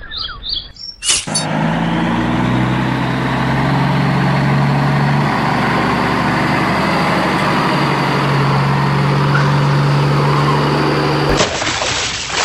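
A heavy vehicle engine running steadily with a low hum. It starts suddenly about a second in and cuts off abruptly near the end.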